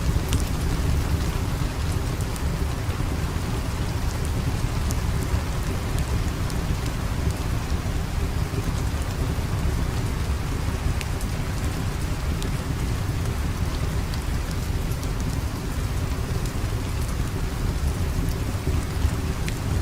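Steady rain with a deep rumble underneath, and scattered sharp crackles from a wood fire.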